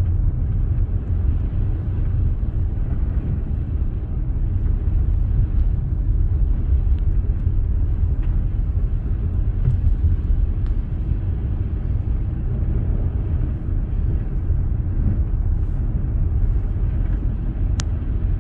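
Steady low rumble of a car driving on a snowy road: engine and tyre noise with no changes in speed. One faint tick near the end.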